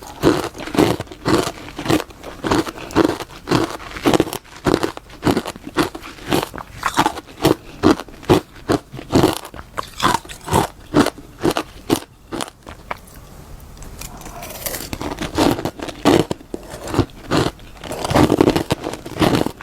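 Freezer frost being bitten and chewed close to the microphone: a steady run of crisp crunches, about two a second, with a short pause about two-thirds of the way through before the crunching starts again.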